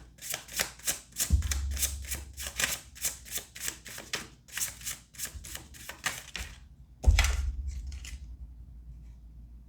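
Tarot cards being shuffled by hand: a quick run of card slaps, about four a second, for some six seconds. There are two dull knocks, one about a second in and a louder one about seven seconds in, after which the sound fades away.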